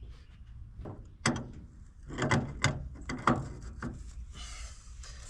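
A series of sharp knocks and clunks, five or so irregularly spaced, from hard objects being handled, with a short hiss near the end.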